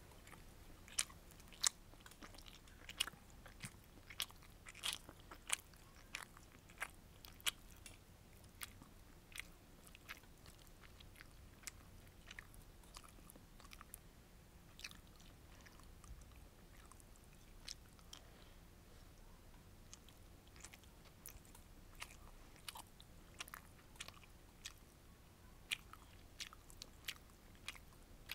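A person chewing sweet and sour fish with rice close to the microphone: soft, wet mouth clicks and smacks at irregular intervals, thick in the first several seconds and again near the end, sparser in between.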